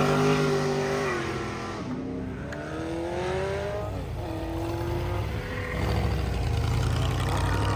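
Car engine accelerating hard and pulling away through the gears: its pitch climbs, then drops at each upshift, about a second and about four seconds in, while the sound fades as the car drives off.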